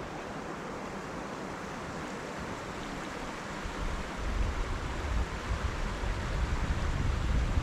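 Wind: a steady rushing hiss, with gusts rumbling on the microphone from about four seconds in.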